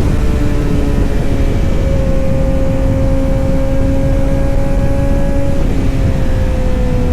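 Kawasaki Z900 inline-four engine and exhaust running at steady revs under a heavy low rumble, the note easing slightly lower about six seconds in.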